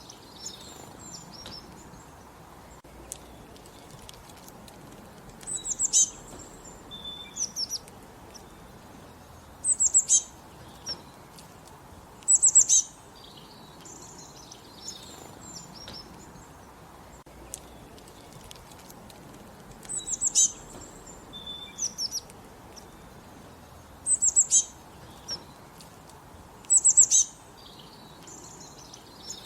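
Songbirds singing in the countryside: about six short, high-pitched song phrases a few seconds apart, with fainter chirps between them, over a steady low background hiss.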